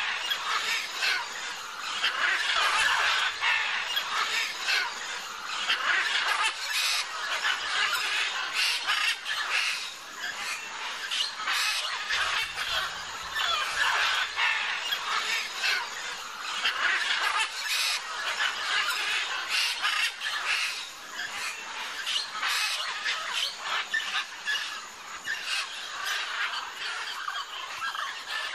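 A large flock of macaws squawking, many harsh calls overlapping in a continuous din.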